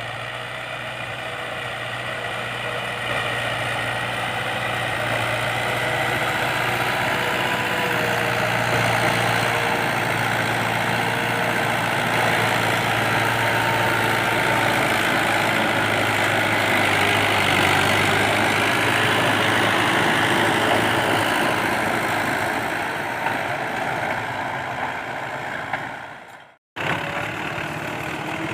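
Fiat 640 tractor's four-cylinder diesel engine running steadily under load as it pulls a fully lowered 11-tine cultivator, growing louder over the first few seconds. Near the end the sound cuts out abruptly for about half a second, then the engine comes back at a different pitch.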